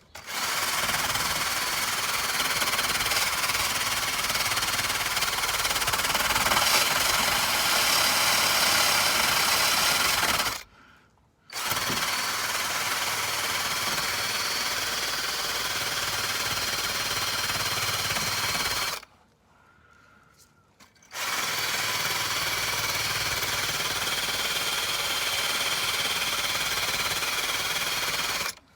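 Electric drill spinning a wire brush against the car's underbody steel, scouring off surface rust, in three long runs with two short pauses.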